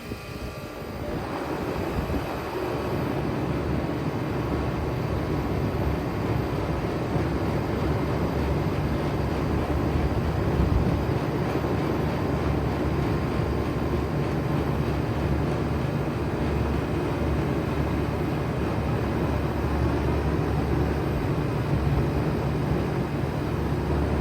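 2007 Bard 3.5-ton wall-mounted heat pump starting up in cooling mode: the sound builds over the first couple of seconds, then the unit runs steadily with a low hum under a broad rush of air.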